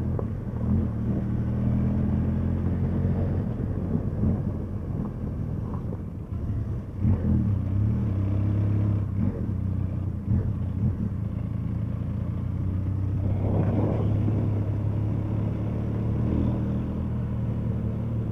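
Benelli TRK 502 X parallel-twin engine running at a steady, low speed while riding a gravel track, with a few short knocks, about seven, ten and thirteen seconds in, from the bike going over the rough surface.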